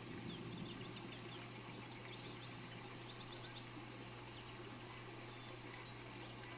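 Steady hiss of rain with small birds chirping in quick series of short high notes, about a second in and again around three seconds in, over a low steady hum.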